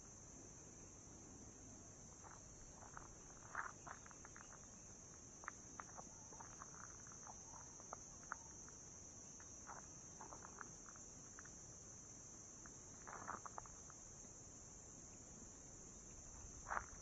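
Near silence outdoors: a faint, steady, high-pitched insect drone, with scattered faint ticks and taps now and then.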